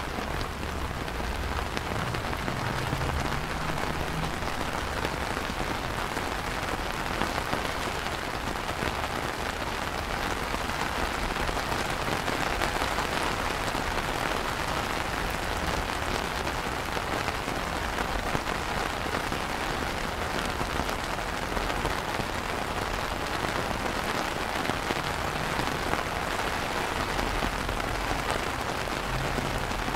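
Steady rain falling on wet stone paving, puddles and garden plants, an even patter that holds without let-up.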